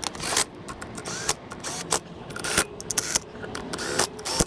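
Irregular clicks and light knocks of metal tools and bolts being handled on a small motorcycle engine, several in quick succession with short gaps.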